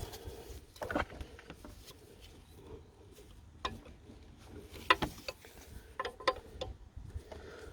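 A few scattered sharp metallic clicks and taps of a spanner working the injector fuel-pipe union nuts on a diesel engine. The loudest click comes about five seconds in.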